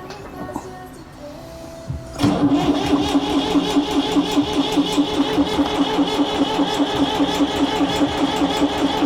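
Massey Ferguson MF230 tractor engine being cranked by its starter without catching, with a rapid, even chugging rhythm. The cranking pauses briefly at the start, then resumes about two seconds in and keeps going.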